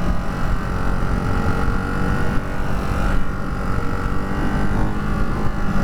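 Ducati Hypermotard 698 Mono's single-cylinder engine running while the bike is ridden, holding a fairly steady pitch.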